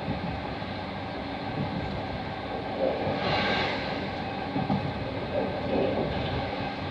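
Passenger train running on the rails, heard from inside the carriage: a steady rumble of wheels and carriage, with a brief louder rush about three seconds in.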